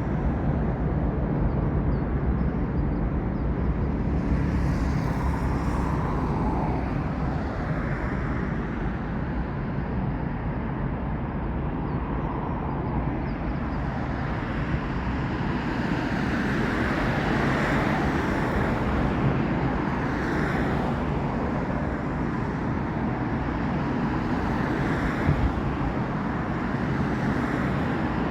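Steady outdoor rumble of jet airliners on approach mixed with road traffic, swelling and fading a few times as aircraft or vehicles pass.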